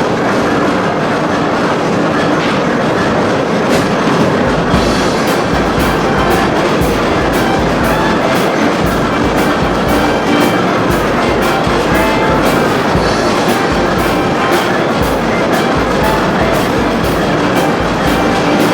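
Old steam-driven machinery running, a loud steady clatter; about four or five seconds in a heavy, regular rhythmic knocking joins it and keeps on.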